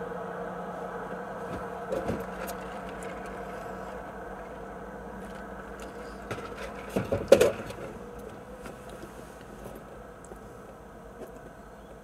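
Car engine idling steadily, slowly fading. A few knocks come about two seconds in, and a louder cluster of knocks about seven seconds in.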